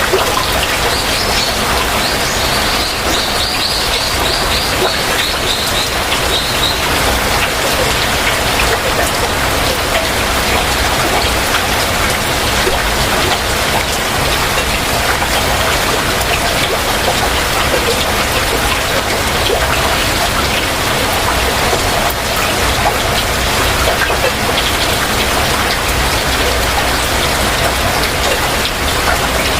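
Heavy rain falling steadily. About a second in, a bird calls a quick run of high repeated notes, drifting slightly down in pitch, for several seconds.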